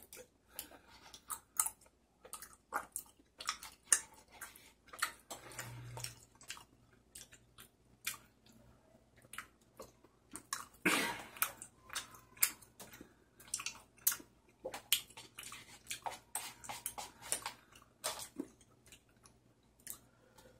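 Close-up chewing of tteokbokki rice cakes: a run of irregular wet mouth clicks and smacks, with one louder breathy sound about halfway through.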